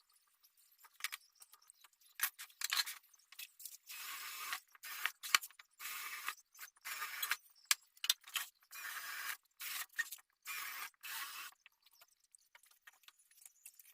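A run of about eight short scraping strokes, each about half a second long, after a few seconds of small scattered clicks and taps; the strokes stop about two seconds before the end.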